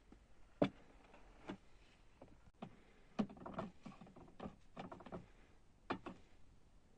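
A series of light, irregular knocks and clicks, about ten spread over several seconds, with a quick cluster about halfway through.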